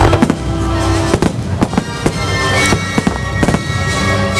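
Aerial fireworks shells bursting in a rapid, irregular series of sharp bangs, over music with long held notes.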